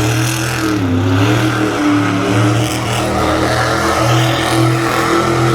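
Monster truck engine running loud, its pitch dipping about a second in and then holding steady under throttle with small rises.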